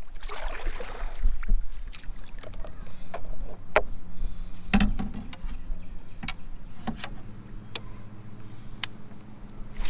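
Paddling a paddleboard: paddle strokes splashing in the water, with several sharp knocks of the paddle against the board at uneven intervals. A low steady hum runs under the second half.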